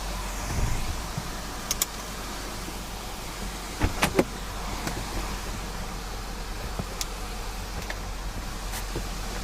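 Jeep WK2 Grand Cherokee heard from inside the cabin while driving a dirt back road: a steady low rumble of engine and tyres. A few sharp knocks and clicks come through, the loudest a quick burst of three about four seconds in.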